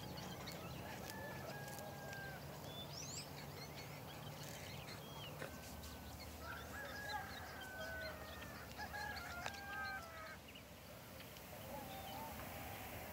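Faint birds calling: many short chirps and whistles, some rising sharply, over a low hum that stops about halfway through.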